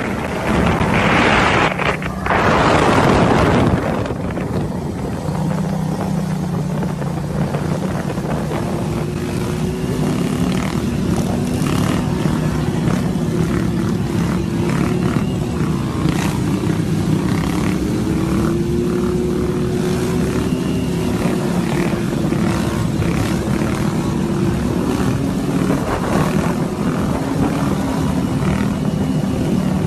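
Motorcycle engine running at a fairly steady speed, its pitch drifting slightly up and down. A loud rushing noise covers the first few seconds.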